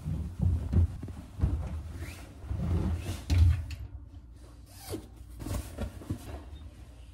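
Irregular rustling, scraping and soft knocks of things being handled at close range, with one zipper-like run of strokes.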